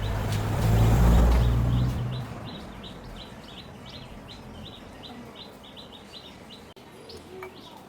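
A small bird chirps repeatedly, about three or four short chirps a second. In the first two seconds a low engine rumble swells and fades.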